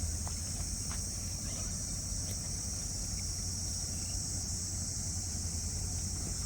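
Steady chorus of insects, crickets or cicadas, as one even high-pitched drone, over a low rumble with a few faint clicks.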